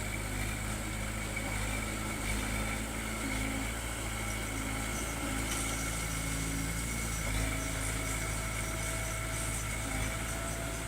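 Diesel engine of earthmoving machinery running steadily, a low even hum with no sharp knocks.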